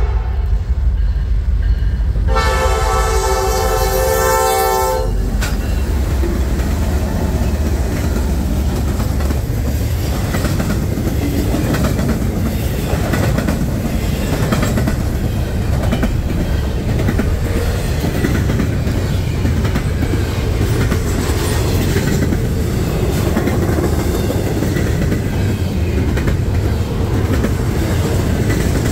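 Norfolk Southern diesel freight train passing. Its locomotive horn sounds a short chord at the very start, then a longer blast from about two to five seconds in. The train then rolls by in a steady rumble, its wheels clicking over the rail joints.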